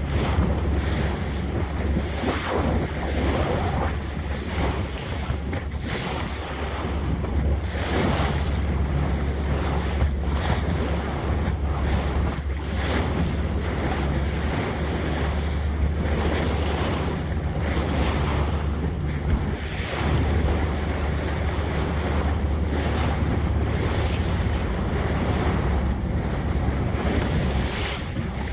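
Boat under way on the water: a steady low engine hum under the wash of water, with wind buffeting the microphone.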